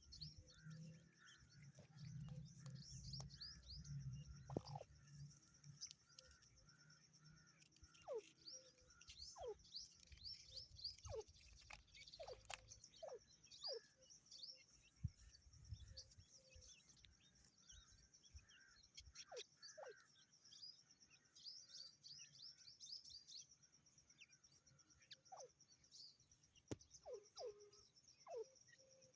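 Grey francolin chicks peeping: a faint, continual stream of short, thin, high chirps that fall in pitch, with a few lower downward sweeps now and then. A low rumble runs under the first few seconds.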